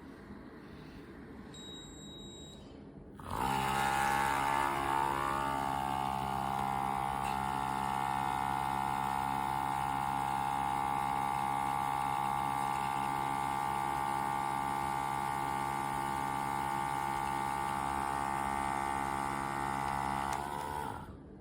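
Small electric pump of an Outin Nano portable espresso machine running with a steady buzzing hum. It starts suddenly a few seconds in and cuts off near the end, after about seventeen seconds.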